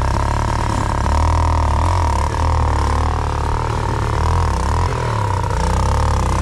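Enduro dirt bike engine running at low revs, its pitch rising and falling a little with small throttle changes as it picks its way over rough ground.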